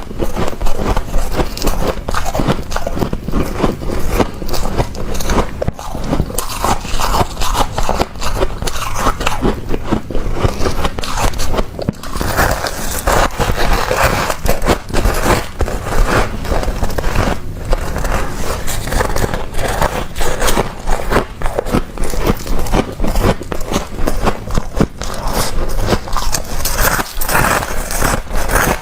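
Thick freezer frost being crunched and scraped: a continuous run of crisp crunches and scraping.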